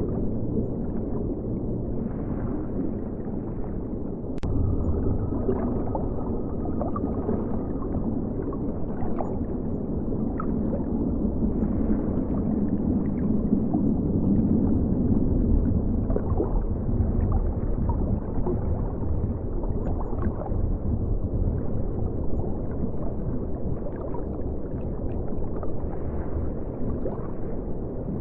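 River water flowing and gurgling, heard underwater: a steady, muffled, low rushing sound with small bubbling gurgles, and one sharp tick about four seconds in.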